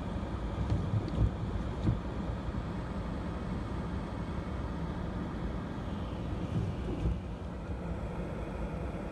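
Steady low rumble of a stationary car idling, heard from inside the cabin, with a couple of short thumps about a second and two seconds in.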